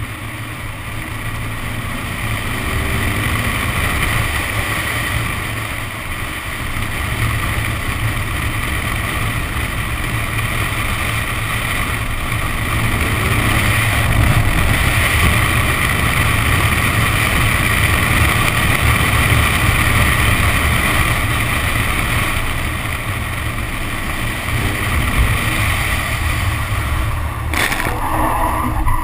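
Nissan 370Z's V6 engine running hard while wind buffets the outside-mounted camera microphone, a loud steady rush with the engine note rising and falling underneath. A sharp knock sounds about a second before the end.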